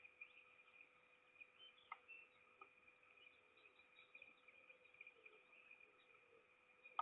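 Faint nest-camera audio: a steady electronic whine under light drizzle, with a few soft drop ticks and one sharper tick near the end.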